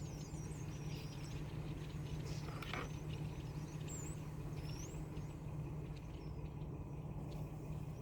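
A large flock of birds chirping and calling, many short high chirps scattered throughout, over a steady low hum.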